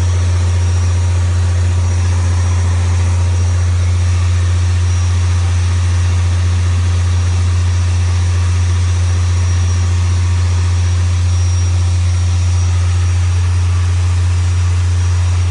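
Motorboat engine running steadily: a constant, loud low drone that does not change.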